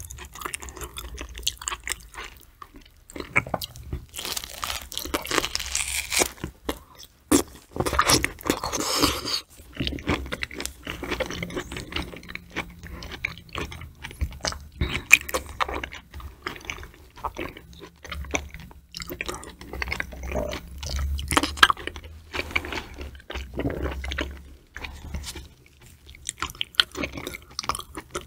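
Close-miked chewing of food, wet mouth sounds broken by crisp crunching bites. The loudest crunching comes in two spells, about 4 and 8 seconds in.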